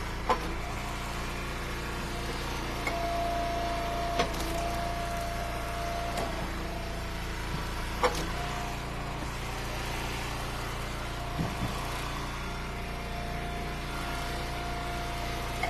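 Eastonmade Ultra hydraulic wood splitter's engine running steadily, with a whine that comes and goes as the ram works. Sharp knocks come about every four seconds as firewood rounds are split.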